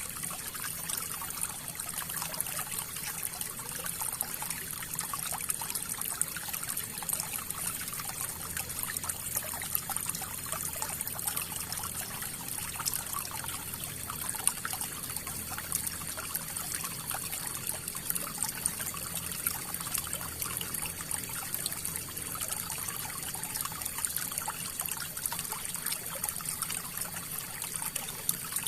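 River water flowing and trickling steadily, a constant rush dotted with many small splashes.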